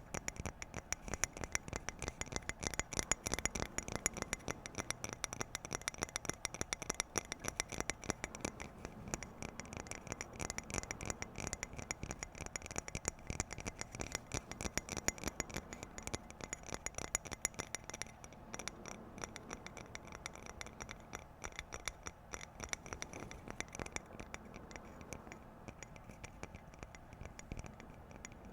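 Fast, light ASMR tapping and scratching on objects, many small taps a second, getting somewhat quieter near the end.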